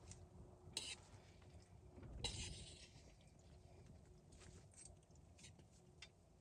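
Quiet campfire-cooking sounds: scattered faint clicks and crackles, a little louder about two seconds in, over a low rumble of wind.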